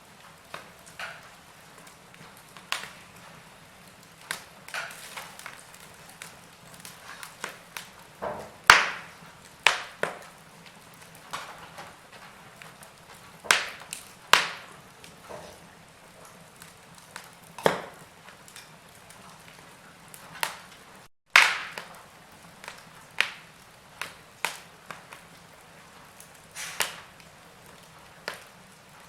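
Wood fire crackling in a fireplace: irregular sharp pops and snaps over a low steady hiss, a few louder cracks among them. The sound cuts out for an instant about 21 seconds in.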